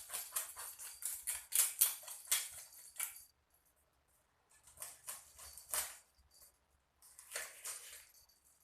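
A knife scraping fish in quick, rasping strokes, as when scaling or cleaning fish. The strokes run fast for about three seconds, stop, then come back in two short bursts.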